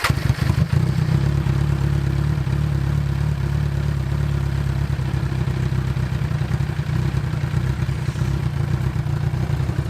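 Kawasaki Z1000 inline-four motorcycle engine, fitted with an aftermarket Black Widow Exhaust header, idling loudly and steadily with a deep pulsing exhaust note.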